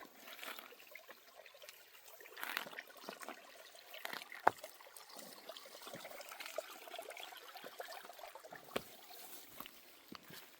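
Water trickling, faint and uneven, with a few small clicks; the loudest is a sharp click about four and a half seconds in.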